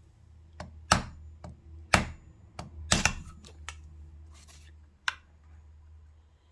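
Three sharp taps about a second apart, with lighter knocks between, on a screwdriver held against a sewing-machine spindle to drive the spindle down into its seat. The spindle is not fully seated.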